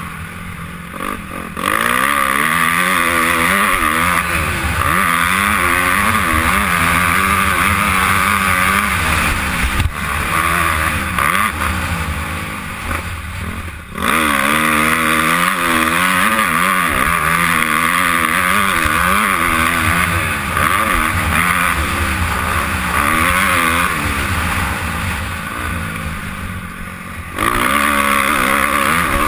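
Honda CRF250R four-stroke single-cylinder motocross engine at race pace, heard from a helmet camera: revving up and down through gear changes. It backs off three times, shortly after the start, about a third of the way in and near the end, each time coming back hard on the throttle.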